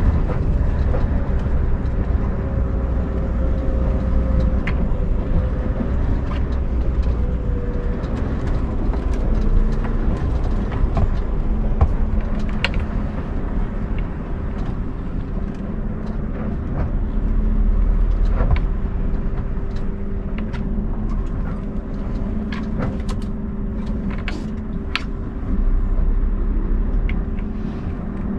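Scania R580 truck's V8 diesel running as the truck drives: a steady low rumble with road noise and a steady hum, getting a little louder twice, with scattered light clicks and knocks.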